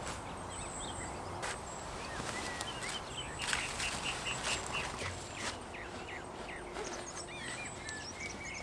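Small birds chirping and singing over a steady background hiss, including one quick run of about six repeated notes a few seconds in, with a few brief clicks.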